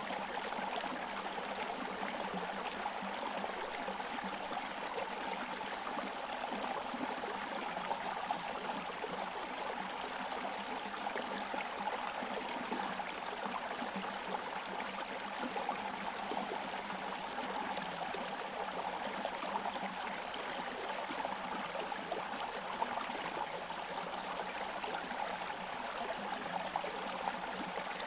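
Small forest stream flowing steadily under partial ice cover, water gurgling and trickling over rocks.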